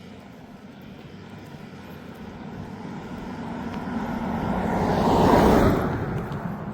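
A motor vehicle approaching and passing close by, growing louder for about five seconds, peaking, then fading quickly.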